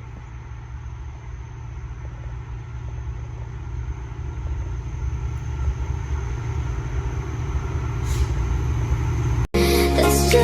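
Low rumble of a CRRC CDA5B1 diesel-electric locomotive, growing steadily louder as the freight train approaches. It cuts off abruptly near the end and music begins.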